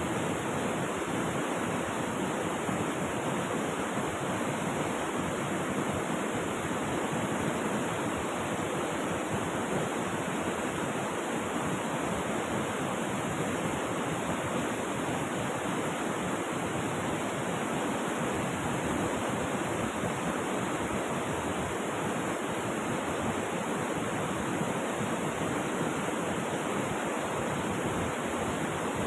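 Steady, unchanging rush of flowing river water.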